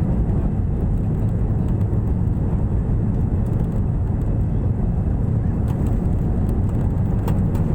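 Airliner taking off: a steady, loud low roar of jet engines and rushing air, unchanging throughout, with a few faint ticks about six and seven seconds in.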